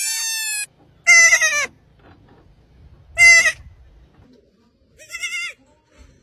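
An animal bleating: a long held call that cuts off just after the start, then three short, wavering bleats about two seconds apart.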